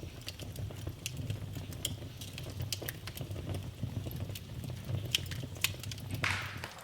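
Wood fire burning in a fireplace, crackling with frequent sharp pops and snaps over a low, steady rumble of flame. A short hiss rises near the end.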